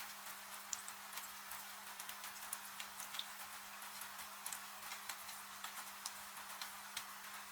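Wood fire crackling with frequent sharp, irregular pops over a steady hiss of rain, with a faint steady low hum underneath.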